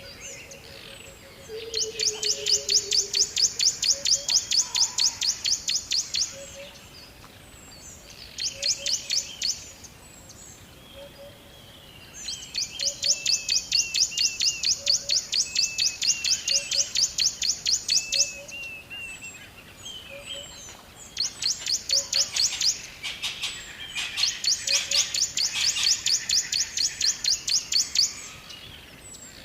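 Birds chirping in long, rapid trills of evenly repeated high notes, about five a second, coming in bouts of several seconds, with softer warbling chirps from other birds in the gaps.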